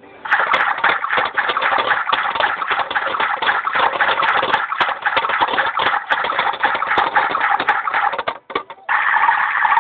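Toy washing machine running its wash cycle: a rattling, churning wash sound, confined to a narrow mid-to-high range as from a small toy speaker. It breaks off into a few clicks just after eight seconds, then resumes as a steadier swishing sound near the end.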